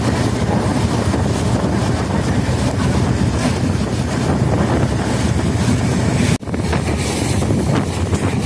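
Wind rushing over the microphone with the steady rumble of a passenger train's coaches running at speed, heard from an open doorway of the moving train. The sound cuts out for an instant a little over six seconds in.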